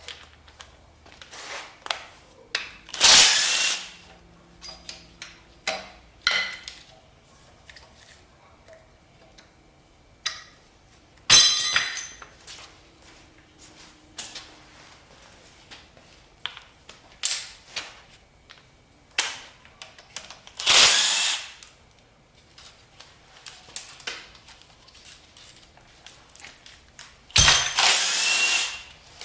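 A power tool runs in four short bursts of about one to two seconds each while bolts come out of an LS V8 engine during teardown. Between the bursts, small metal parts clink and knock.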